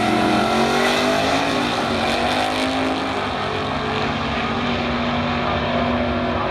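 Drag-racing car engine at full throttle down the strip, its pitch climbing for the first two or three seconds and then holding steady.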